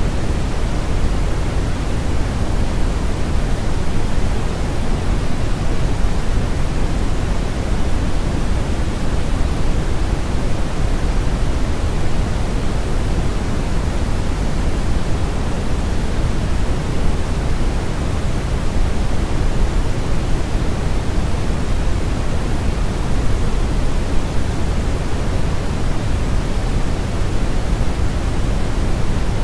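Steady brown noise: an even, unbroken rumbling hiss, strongest in the bass and rolling off toward the treble, with no change throughout.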